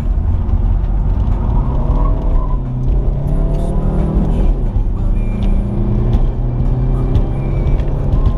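Alfa Romeo 147's engine heard from inside the cabin at speed, over a heavy rumble of road and wind noise. The engine note climbs for a couple of seconds, drops sharply about four seconds in, then holds steady.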